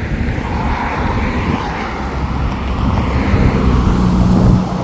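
A motor vehicle passes close, its engine hum building over the last couple of seconds and dropping away near the end. Underneath is a steady rushing rumble of wind and rough sea.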